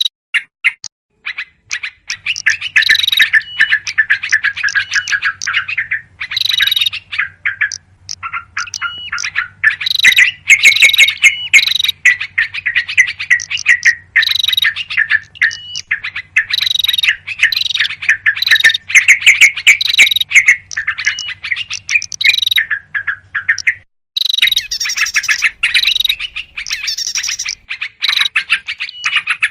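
Yellow-vented bulbuls chattering in a dense, near-continuous run of chirps and trills, the noisy, agitated calling used as a lure to draw in small wild birds. Brief breaks come just after the start and about three quarters of the way through, and a faint low hum runs under most of it.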